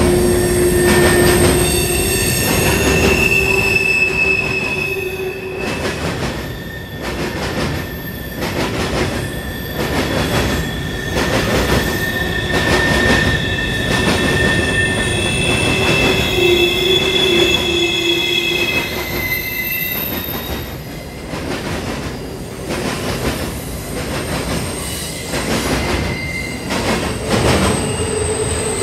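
Freight train cars rolling past with a steady rumble, their wheels squealing in long high-pitched tones that shift in pitch over time.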